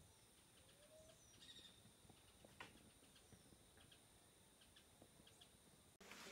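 Near silence with faint bird calls: a few short rising whistles and scattered chirps. The background gets abruptly louder near the end.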